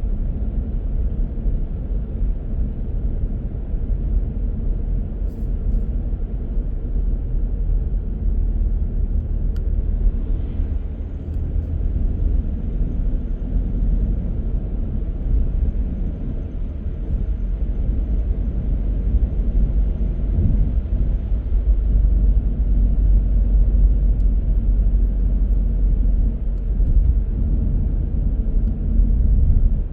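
Car driving steadily: a constant low rumble of engine and tyres on the road, growing a little louder after about twenty seconds.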